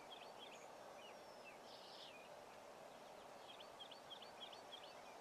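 Near silence: a quiet field with a steady faint hiss. Faint bird chirps come in two short runs, near the start and again about four seconds in.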